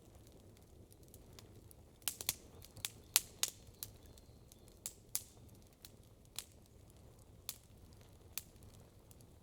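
Wood campfire crackling: sharp pops, a quick run of them about two to three and a half seconds in, then single pops about once a second over a faint steady background.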